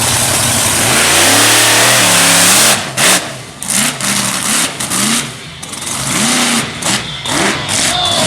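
Monster truck engine revving: about three seconds of loud, steady engine noise, then a string of short throttle blips, each rising and falling in pitch.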